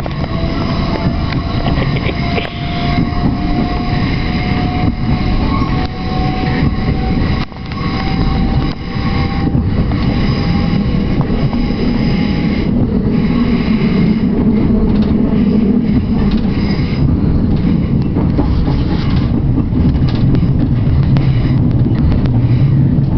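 Passenger train running, heard from inside the carriage: a steady loud rumble of wheels and running gear, with a thin whine that slowly rises in pitch over the first twelve seconds or so.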